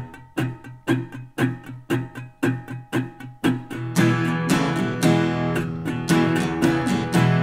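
Music: a strummed guitar starts and keeps a steady rhythm of about two strokes a second, with more instruments filling in from about four seconds in.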